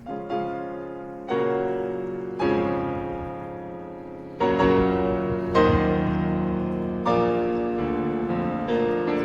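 Background music: slow piano playing held chords, a new chord struck every second or so and left to ring out.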